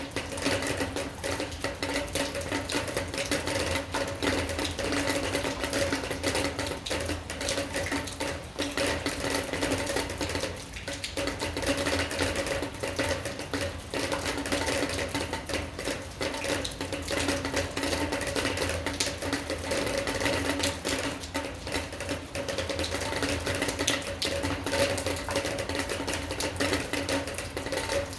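Rain falling, its drops tapping densely and irregularly on a hard surface, over a steady low hum.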